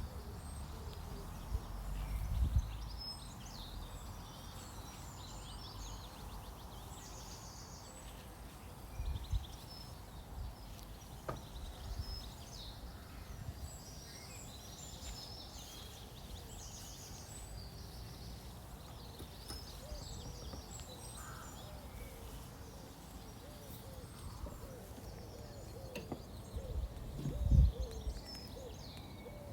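Small birds chirping and singing in short, scattered calls over a steady outdoor hiss. A few low thuds break in, the loudest near the end, and low cooing calls come in over the last few seconds.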